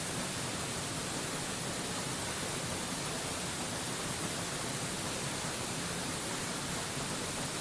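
Waterfall white noise: a steady, unchanging rush of falling water heard as an even hiss, strongest in the high end.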